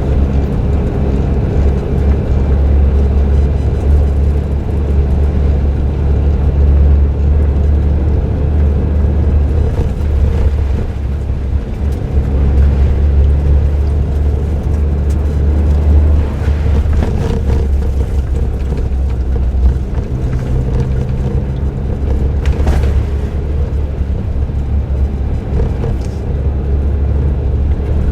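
Suzuki Jimny JB23W's 660 cc turbocharged three-cylinder engine with aftermarket muffler, running at a steady low drone while driving, along with tyre and road noise. A few brief knocks come through in the second half.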